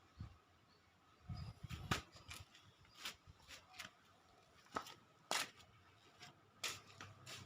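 Irregular light clicks, taps and knocks of objects being handled, about a dozen in all, with a duller thumping cluster a little under two seconds in.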